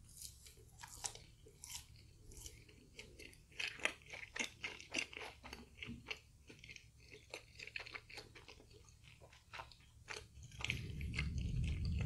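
A person chewing a mouthful of crunchy fried food, with many small irregular crunches and mouth clicks. A low rumble sets in near the end and is louder than the chewing.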